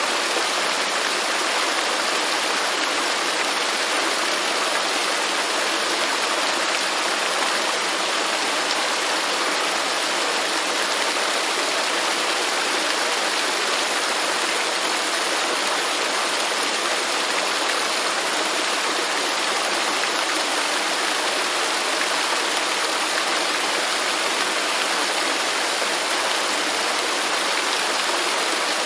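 Waterfall rushing steadily, an even hiss of falling water without a break.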